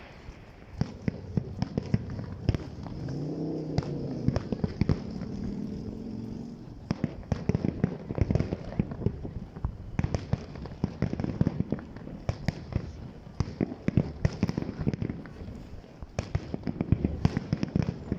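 Fireworks display going off: a long run of sharp bangs and crackles at irregular intervals, growing denser in the second half.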